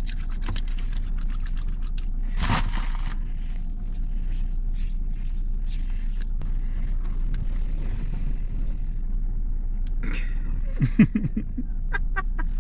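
Fingers scratching and rustling against nylon stockings and bare skin, a run of small scratchy clicks with a louder rustle about two and a half seconds in, over a steady low hum of the car cabin. A brief burst of short vocal sounds comes near the end.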